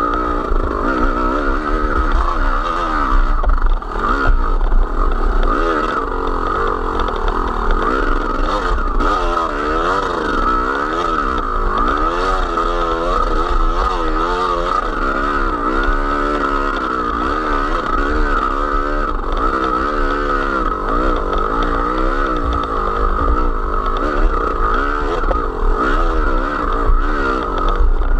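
Small motor vehicle's engine running under way, its pitch rising and falling repeatedly with the throttle, over a constant low rumble.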